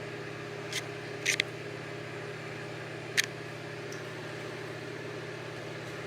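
Steady low hum of a room appliance or fan, with a few short sharp clicks: one near the start, a quick pair about a second and a half in, and one more around three seconds in.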